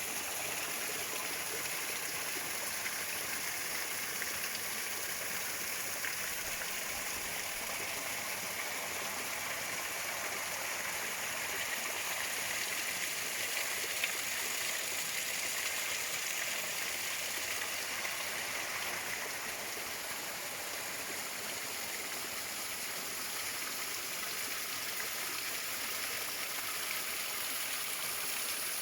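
Steady rushing and splashing of water over rocks at a waterfall running at its low dry-season flow.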